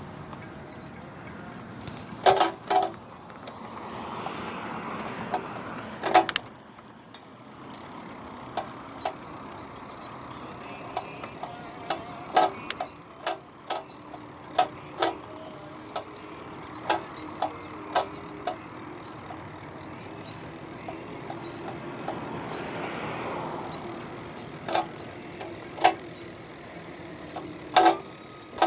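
Road and traffic noise heard while riding, swelling twice as if vehicles pass, broken by many short, sharp sounds that ring briefly.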